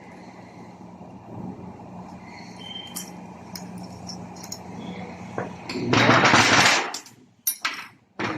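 Metal tools and gearbox parts clinking and knocking while a manual gearbox is taken apart, over a steady low hum. About six seconds in, a loud burst of noise lasts about a second, followed by a few sharp knocks.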